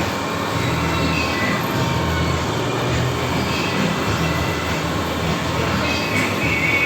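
Steady mechanical rumble of workshop machinery running, with a low hum and faint high squeals now and then.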